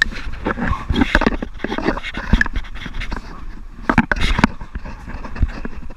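A man breathing hard and panting in distress, with irregular knocks and scrapes and wind rumbling on the microphone; the loudest knocks come about two seconds in and again around four seconds.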